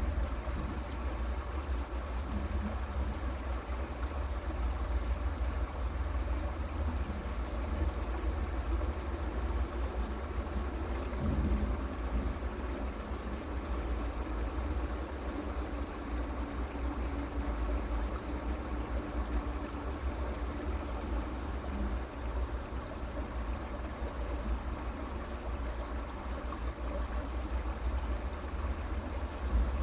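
Creek water running steadily, with a deep low rumble underneath.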